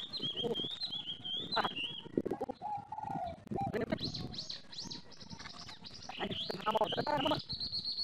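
Small birds calling with repeated high chirps and wavering high notes, plus a lower, longer note about three seconds in, over rustling and handling noise from a fine mist net and rice plants.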